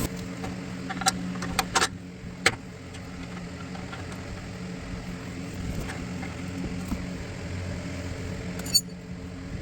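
A few short, sharp clicks and clinks of hand tools on the steel suspension parts, about one to two and a half seconds in and once more near the end, over a steady low hum.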